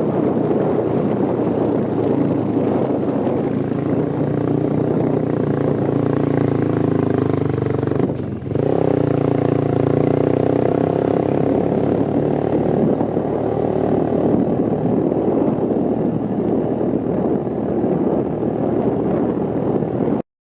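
Motorbike engine running under way, steady with a brief drop in level about eight seconds in, after which the pitch climbs a little; it cuts off suddenly at the very end.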